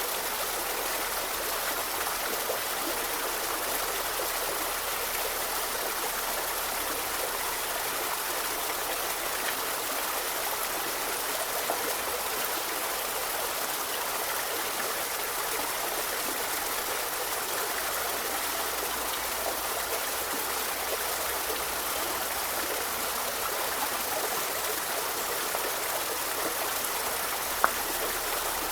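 A river flowing steadily, an even rush of running water, with one brief sharp click near the end.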